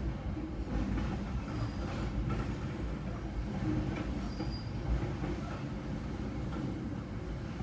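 Freight train rolling through at close range: a steady rumble of wagon wheels on the rails, with a brief faint high wheel squeal twice.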